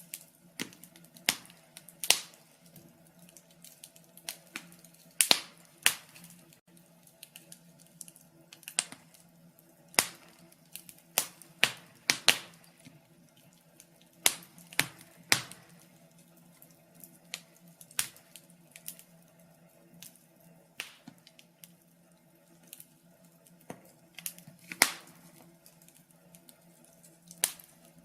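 Wood fire crackling: irregular sharp snaps and pops, a few of them loud, over a faint steady hum.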